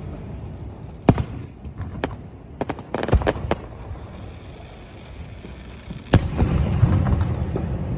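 Fireworks display: aerial shells bursting with sharp booms, a quick cluster of reports around three seconds in, then one loud burst about six seconds in that trails off into rumbling and crackle.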